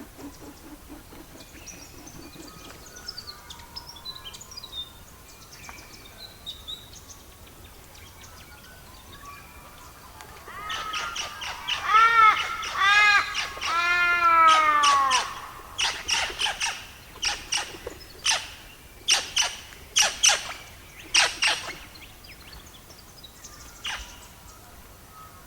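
Bird calls: faint chirps, then about ten seconds in a loud run of repeated harsh calls, each falling in pitch, lasting about five seconds, followed by a string of short, sharp calls.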